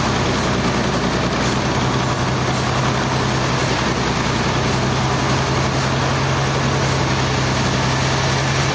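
Sawmill machinery running steadily: a continuous engine-like drone with a steady low hum under a broad rushing noise.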